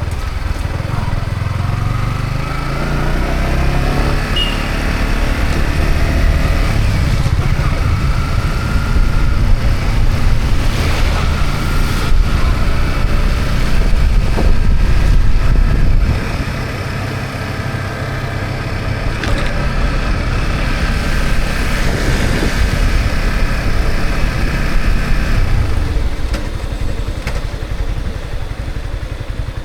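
Yamaha MT-15's single-cylinder engine running under way, its pitch climbing as it accelerates in the first few seconds, louder through the middle and easing off about halfway through. A constant low rumble of wind and road noise lies underneath.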